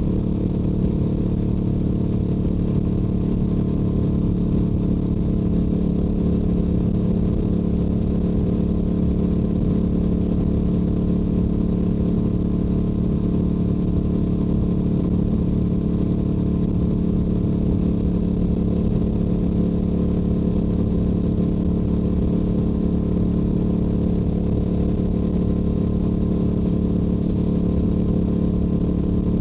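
Stock Yamaha YZF-R7's 689 cc parallel-twin engine and exhaust running at a steady speed while cruising on the highway, with a low rumble underneath. The pitch holds constant with no revving or gear changes.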